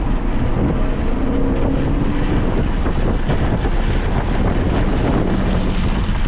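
A car driven at speed on a race circuit: its engine note under heavy wind buffeting on the microphone.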